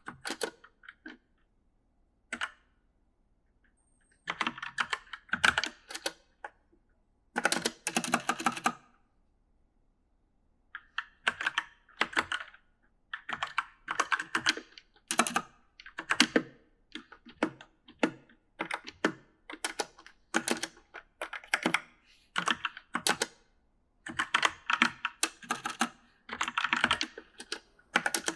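Typing on a mechanical gaming keyboard: bursts of rapid key clicks, broken by pauses of a second or more, with a near-silent gap of a few seconds near the start.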